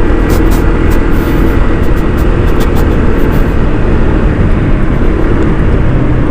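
Honda ADV 160 scooter's single-cylinder engine running under a steady, loud rumble of wind on the rider's microphone.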